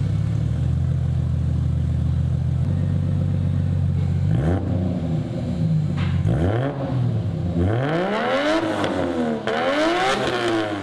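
Toyota 1JZ-GTE turbocharged inline-six running through a freshly fitted custom 3-inch exhaust with a resonator and dual tips. It idles steadily, then from about four seconds in it is revved up and let fall several times, the blips coming quicker near the end.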